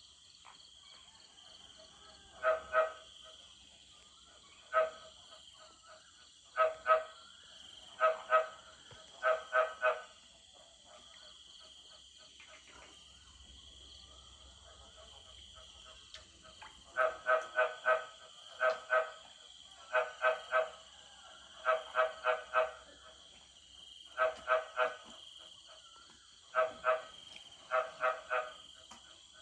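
Frogs croaking in their rainy-season breeding chorus, in short groups of two to five quick pulsed calls, with gaps of a second or more between groups. A steady high-pitched chorus hums behind them.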